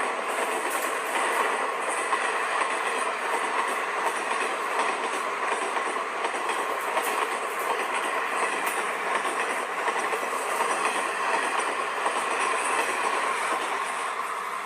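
Indian Railways express train running past at speed: a steady rushing noise of wheels on rails, with repeated sharp clicks.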